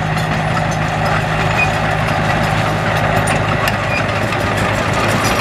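Diesel engine of heavy earthmoving machinery, such as a bulldozer or motor grader, running steadily at a low, even pitch, with scattered light clicks and knocks over it.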